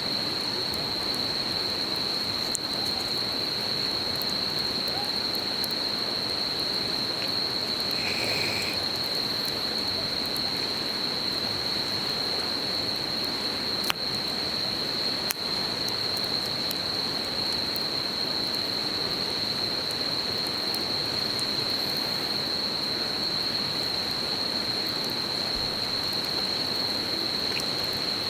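A river babbling steadily under a continuous high-pitched insect chorus, with a few sharp crackles from a campfire now and then.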